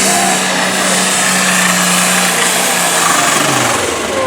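Light limited pro stock pulling tractor's turbocharged diesel engine running at full power under load, with a steady high note that drops in pitch about three and a half seconds in as the engine comes off power.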